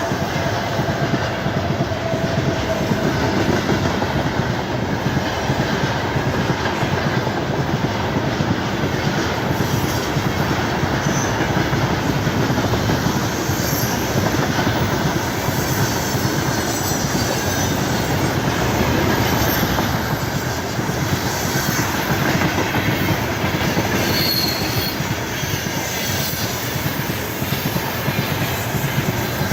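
Freight train wagons rolling past at close range, a steady loud rumble and clatter of wheels on rail, with now and then a brief faint wheel squeal.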